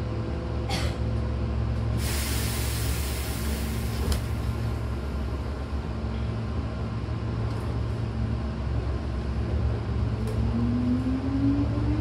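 Hankyu commuter train standing with its doors shut, heard from inside the car: a steady low hum, then a hiss of compressed air for about two seconds, a couple of seconds in. From about ten seconds the traction motors begin a whine that rises in pitch as the train starts to pull away.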